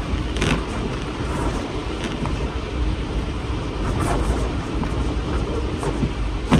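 Storm wind gusting, with a steady deep rumble of wind buffeting the microphone and a hiss that rises and falls.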